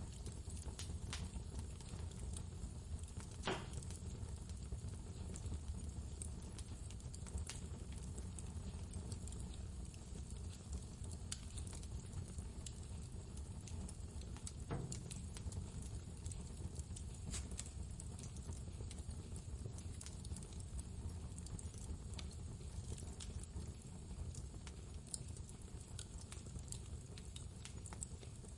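Wood fire crackling with irregular snaps and pops over a steady low rumble of blizzard wind.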